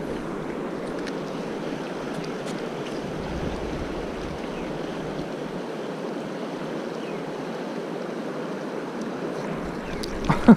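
Steady rushing of a flowing mountain river, with wind buffeting the microphone now and then. A short, sharp sound near the end.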